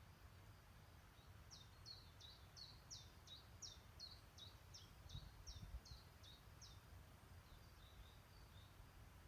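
A songbird calling faintly: a run of about fifteen short high notes, each dropping in pitch, at roughly three a second, starting after a second or so and stopping a few seconds before the end, over a faint low rumble.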